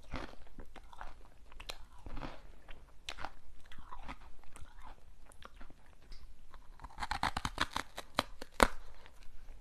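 Close-miked eating of crunchy sweets: irregular bites and chewing crunches, with a dense run of crunching about seven seconds in and one sharp crack shortly after.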